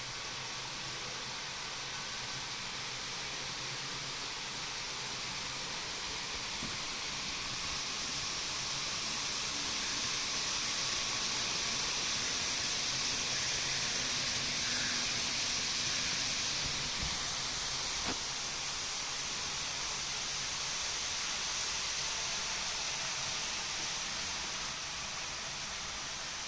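N-gauge model Shinkansen train running on the layout track: a steady hissing rush of small wheels and motor. It grows louder toward the middle and eases off again as the train passes.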